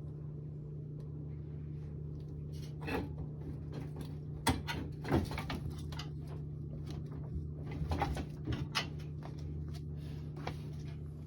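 A few scattered knocks and clicks from things being handled, over a steady low hum.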